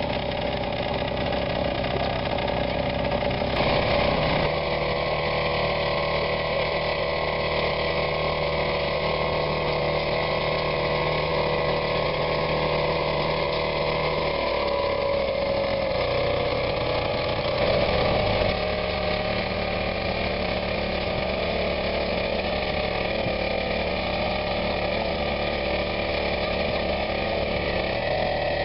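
Car engine and exhaust running at idle, steady, with the engine note shifting slightly a few times.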